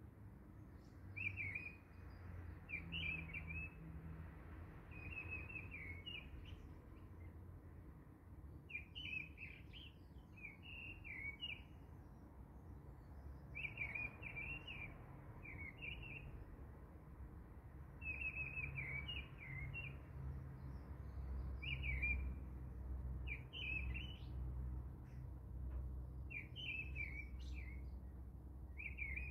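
A small bird chirping in short repeated phrases every second or two, over a faint low hum.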